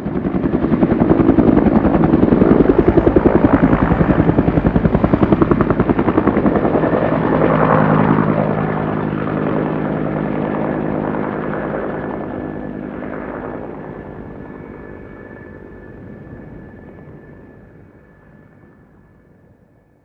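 A loud mechanical sound with a fast chopping pulse and a steady hum, starting abruptly and then slowly fading away over about twenty seconds.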